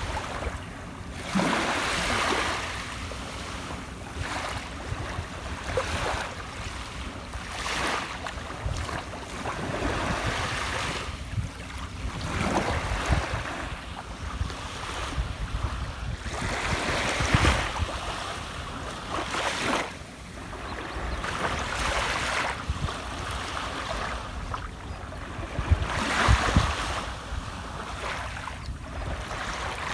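Sea waves breaking and washing ashore, each wash swelling and fading every three to five seconds over a steady low rumble of surf.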